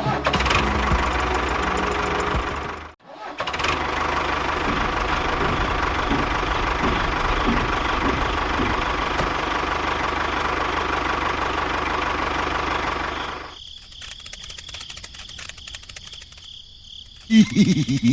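A small motor runs steadily, cuts out for a moment about three seconds in, then runs on and stops near the end. Fast quieter clicking follows it.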